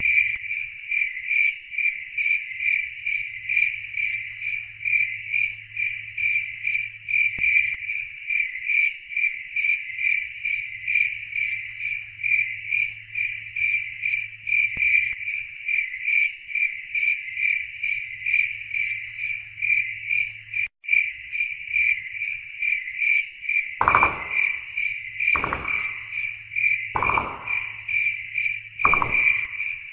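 Crickets chirping in a steady, rapid pulse, with a faint low hum coming and going beneath. In the last several seconds five short, deeper sounds come about a second and a half apart, and there is a split-second gap about two-thirds through.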